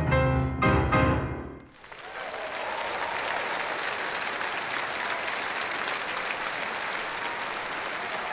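The closing chords of a two-piano duet: a last chord struck about half a second in rings and dies away by under two seconds. The audience then breaks into steady applause for the rest of the time.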